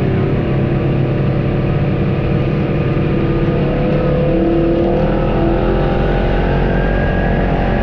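Off-road vehicle engine running under load on a trail, its pitch rising about five seconds in as it revs up.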